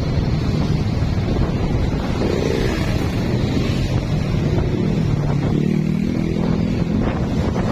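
Wind buffeting the microphone while riding a carburetted Honda Blade motorcycle, its single-cylinder engine note faintly heard under the wind and rising in pitch about halfway through.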